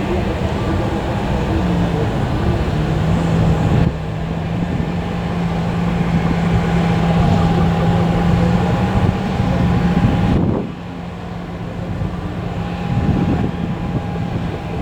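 Jet airliner engines running: a steady hum with a higher whine over a low rushing noise. The sound changes abruptly about four seconds in and again about ten seconds in.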